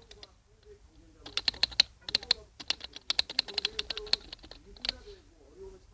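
Typing on a Team Scorpion LED plunger keyboard (plunger switches over a membrane): quick runs of keystroke clicks starting about a second in, thinning out to single strokes near the end.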